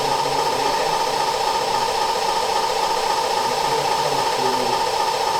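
Steady, loud hiss with a constant hum, unchanging throughout, like a fan or other running machinery.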